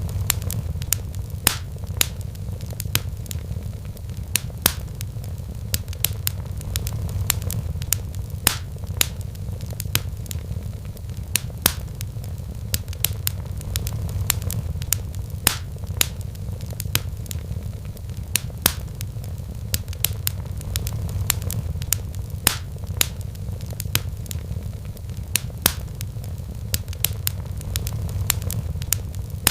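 Wood fire in a fireplace crackling: sharp, irregular pops and snaps a few times a second over a steady low rumble.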